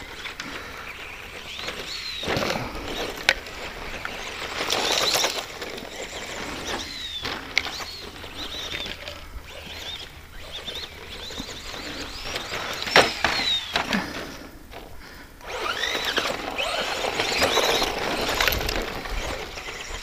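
ECX Circuit RC stadium truck with a 15-turn brushed electric motor running laps on a rough dirt track: the motor whine rises and falls with the throttle over the crunch of the tyres, with a few sharp knocks from landings and impacts.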